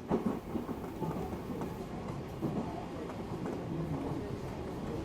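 Odakyu electric commuter train running along the line: a steady rumble of wheels on rail with scattered light knocks.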